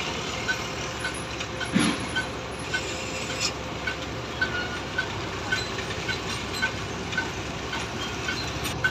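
Diesel engines of the heavy lifting cranes running steadily while a concrete bridge girder is slowly positioned, with short high beeps repeating about twice a second.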